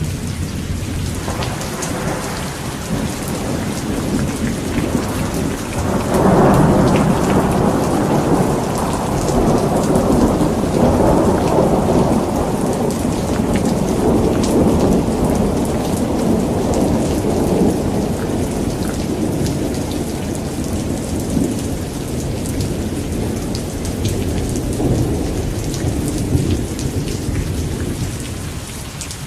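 Steady rain falling, with a long roll of thunder that swells about six seconds in and slowly fades over the next twenty seconds.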